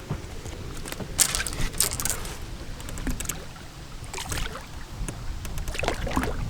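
Wind rumbling on the microphone aboard an open aluminum fishing boat, with a few short splashy or clattering noises about a second in and again around four seconds in.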